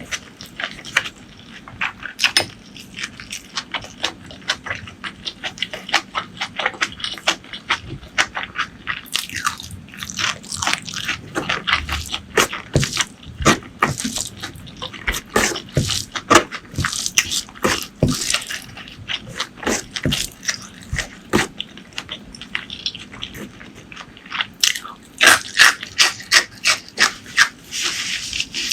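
Close-miked eating sounds: a person chewing and smacking wet, saucy food, a rapid run of sharp clicks and wet smacks with busier stretches around ten seconds in and near the end.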